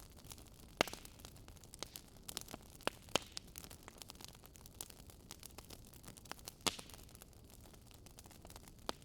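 Wood fire crackling: irregular sharp pops and snaps over a steady soft hiss, with louder pops about a second in, at about three seconds, and near the seven-second mark.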